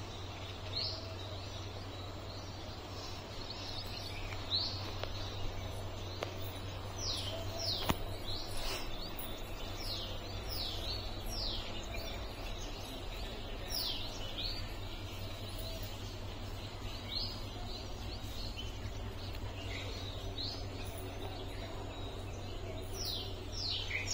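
Small birds chirping: short, high, downward-sliding chirps at irregular intervals, thickest in the middle and near the end, over a steady low hum. One sharp click about eight seconds in.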